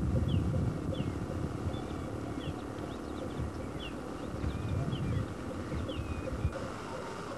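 Birds calling in a reedy marsh: short, high, falling chirps repeated every half second to a second, over a steady low rumble.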